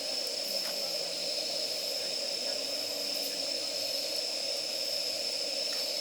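Wood fire burning steadily, with a few faint crackles through a constant hiss and a steady high-pitched tone.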